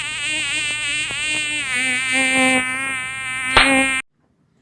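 A loud, insect-like buzz whose pitch wavers and shifts, with a sharp click near the end. It cuts off abruptly.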